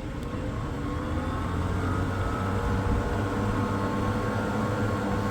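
Old 12-inch Royal exhaust fan's single-speed motor starting up: a noisy motor hum that rises in pitch over the first couple of seconds as the blades spin up, then runs steadily.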